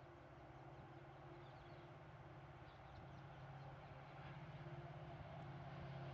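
Faint, low, steady rumble of the approaching Ernakulam–Bengaluru Express, growing slowly louder, with a few faint bird chirps.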